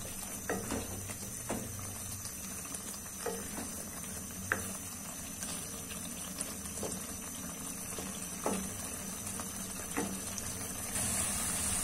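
Chicken and yogurt bubbling and sizzling in a karahi as the water released by the yogurt cooks off, with a few scattered knocks of a spoon against the pan. The hiss grows louder near the end.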